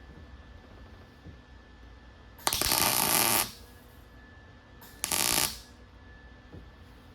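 Welder crackling in two short bursts, about a second and then half a second, each starting and stopping abruptly: quick tack welds on thin sheet metal that keeps burning through.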